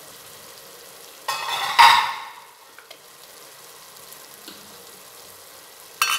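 Soaked fenugreek seeds and onions sizzling steadily in oil in an aluminium pot, the water they were cooked in having dried off. About a second and a half in comes a louder rasping burst lasting about a second, and sharp clicks start at the very end.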